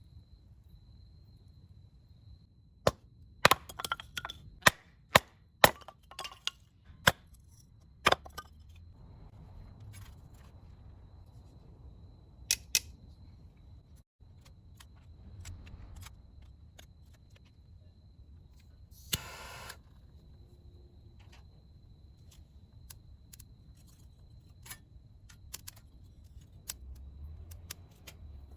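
A series of sharp clicks and knocks from hard objects being handled, packed close together for a few seconds and then scattered. About two-thirds of the way through comes one longer scraping burst with a brief ring.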